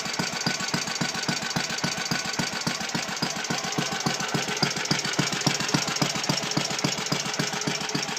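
Antique Clinton cast-iron stationary engine running steadily, with an even, rapid firing beat.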